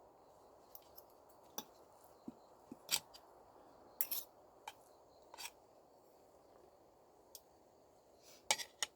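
Scattered light clicks and clinks, irregular and a dozen or so in all, over a faint steady hiss. The loudest come about three and four seconds in, with a quick pair near the end.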